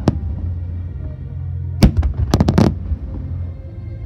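Aerial fireworks shells bursting: one sharp bang right at the start, then a quick run of about five loud bangs a little under two seconds in.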